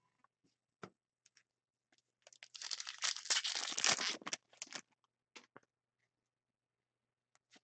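Foil wrapper of a trading-card pack being torn open and crinkled for about two and a half seconds, with a few light clicks of card handling before and after.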